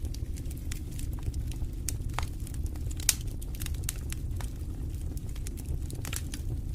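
Wood fire burning in a fireplace, crackling with frequent irregular sharp pops over a low steady rumble; one louder pop about three seconds in.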